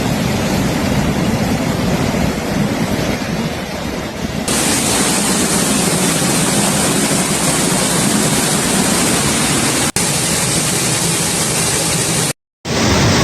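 Loud, steady rushing of water, floodwater or torrential rain, in several cut-together clips whose character changes abruptly about four and a half and ten seconds in, with a brief dropout near the end.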